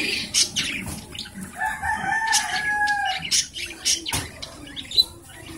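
A rooster crowing once, a long held call lasting about a second and a half. Sharp clicks and knocks are scattered around it.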